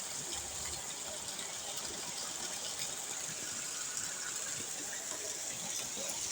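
Steady rush of heavy rain and running rainwater.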